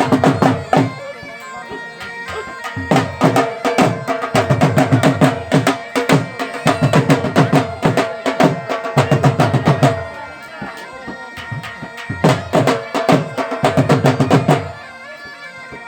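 Bagpipes playing a droning melody over fast, loud drumming. The drums drop out twice for a second or two and stop shortly before the end, leaving the pipes sounding alone.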